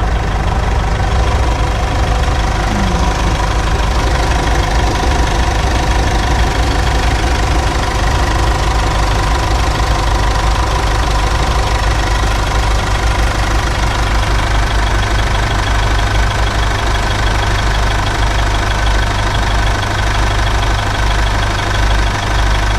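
Mitsubishi Challenger's 4D56 four-cylinder turbo-diesel engine idling steadily.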